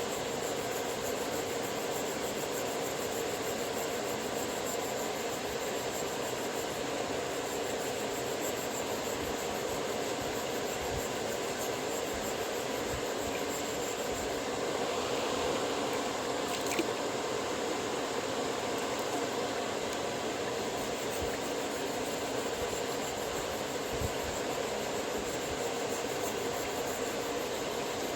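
A machine running steadily with an even whirring noise, broken only by a couple of faint low knocks.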